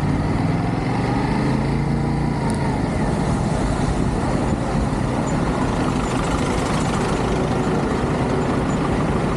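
Motorcycle engine running under way, mixed with heavy wind rush on the microphone. The engine pitch shifts in the first couple of seconds, then holds steady.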